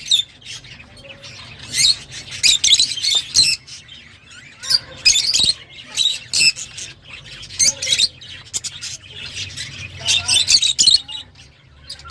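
Rosy-faced lovebirds chirping and squawking in quick, shrill clusters of short notes, with brief lulls between the clusters.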